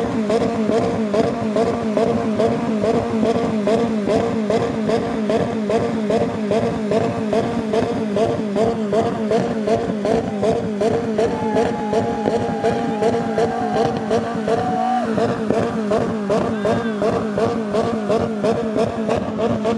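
Police siren sounding in a fast, even warble that repeats several times a second, held steady and loud throughout.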